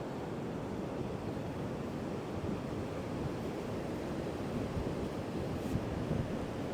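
Heavy ocean surf breaking in a steady wash, with strong wind buffeting the microphone.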